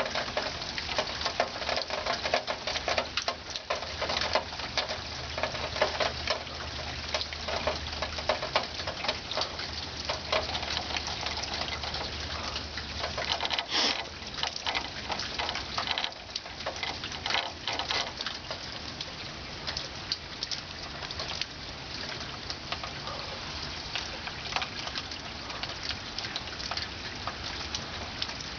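Steady rain pattering and dripping in a thunderstorm, a dense hiss of many small drop strikes. A faint low hum runs under it for about ten seconds in the first half.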